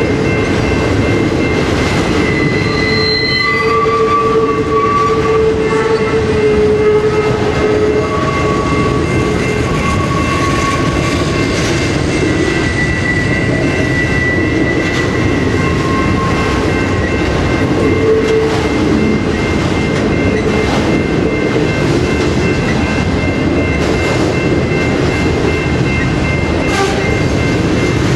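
A train rolling past close by: a continuous loud rumble and rail noise with the clatter of cars over the rail joints. Thin high-pitched tones come and go over it, most strongly in the first several seconds.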